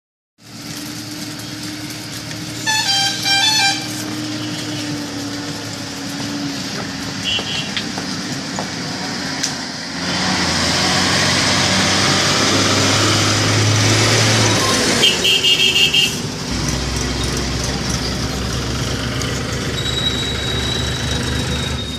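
Swaraj diesel tractor engine running steadily, growing louder for a few seconds mid-way, then settling into a low, pulsing run. A vehicle horn honks briefly about three seconds in and again about fifteen seconds in.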